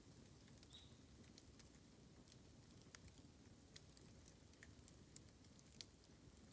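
Faint, sparse crackling of a bamboo fire: scattered small irregular pops and ticks, a few a second at most, over a low steady background.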